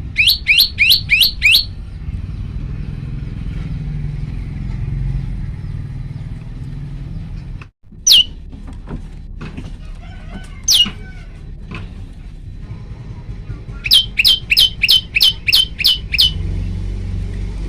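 Male tailorbird calling: a quick run of about six sharp, high notes, each sliding downward, then two single notes, and near the end a run of about nine notes, over a steady low hum.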